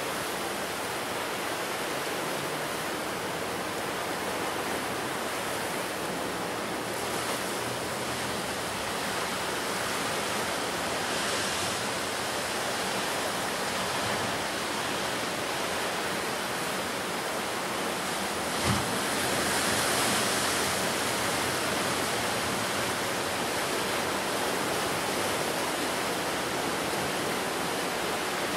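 Sea surf breaking on the shore, a continuous wash that swells and eases with each wave. A single brief thump a little past halfway.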